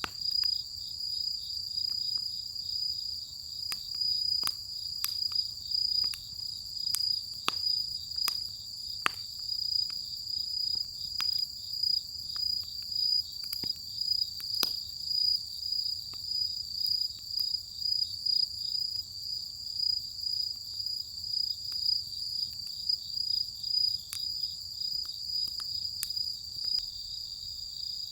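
Insects keep up a steady, high-pitched pulsing chirr throughout. Scattered sharp crackles and pops of firewood burning in a large steel fire pit come through at irregular intervals.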